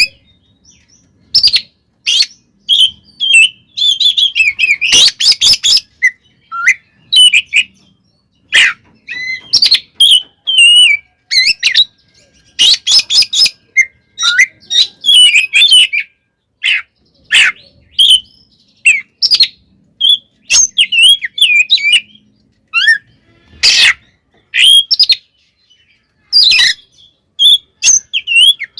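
Oriental magpie-robin (kacer) singing hard in its aggressive fighting song: quick, varied phrases of sweeping whistled notes with short pauses, broken several times by short harsh rasping bursts.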